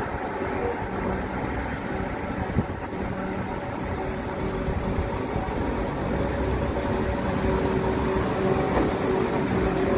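Passenger multiple-unit train rolling slowly past below, with a low rumble and a steady hum, getting a little louder in the second half.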